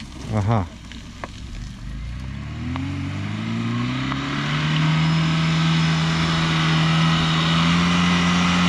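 Lada VAZ-2101 Zhiguli's four-cylinder engine revving up and then held at high, steady revs as the car pulls slowly out along a muddy track. The pitch climbs from about two seconds in and levels off about five seconds in, over a growing hiss.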